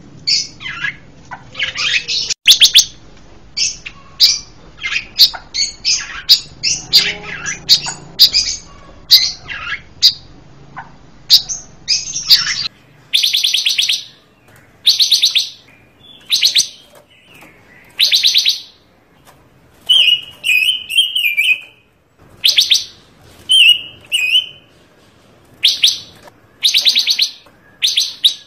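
Songbird sold to Indonesian bird-keepers as 'panca warna' singing energetically: a fast, varied run of chirps and whistled phrases, then, about halfway through, a string of short buzzy, rattling phrases roughly once a second, broken by a couple of warbled phrases.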